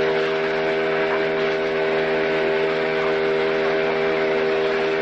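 A heavy vehicle's engine running at a steady speed, giving an even drone that does not rise or fall.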